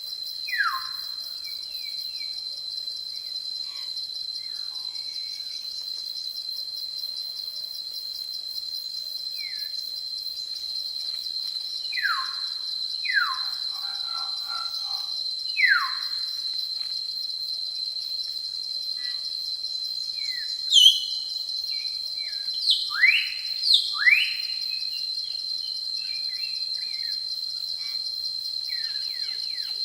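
Forest ambience: a steady, high-pitched insect drone, with birds calling over it in short whistles that fall sharply in pitch, a few times early on and in a cluster about two-thirds of the way through.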